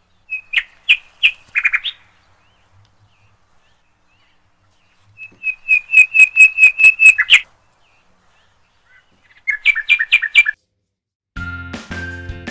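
Bird chirping in three short bursts of quick, evenly repeated high notes, with silence between them. Music starts about a second before the end.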